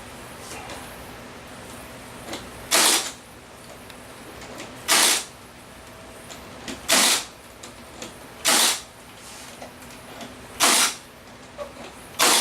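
Short bursts of hissing noise, about six of them roughly two seconds apart, with faint clicks in between.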